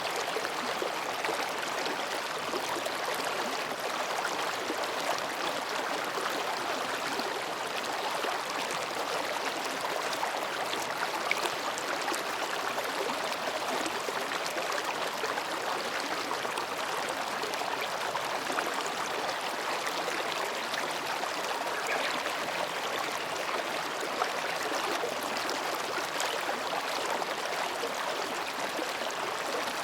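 Mountain stream babbling steadily as it flows between rocks.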